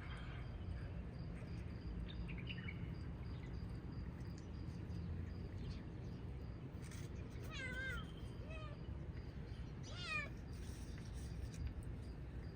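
Hungry stray cats meowing, a few separate meows with the clearest ones in the second half, over a steady low background rumble.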